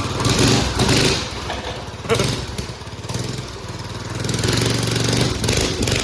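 Mini bike's small engine running, revved up twice: once about a second in and again near the end, with steadier running between.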